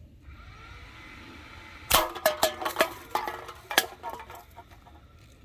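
A BB gun shot strikes metal cans, which clatter and ring as several topple over, with a last knock about two seconds later. Four cans go down.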